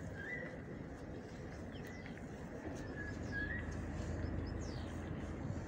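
Small birds chirping in short, quick calls over a low, steady rumble that grows slightly louder about three seconds in.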